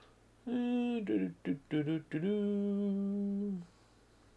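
A man humming a short wordless tune: a held note, a few quick notes, then one long steady note that stops about three and a half seconds in.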